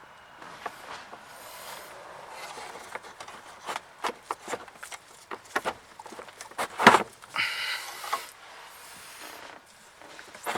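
Hands working a stuck heater-core hose connection loose: scattered clicks, scrapes and rubbing, with one sharp knock about seven seconds in.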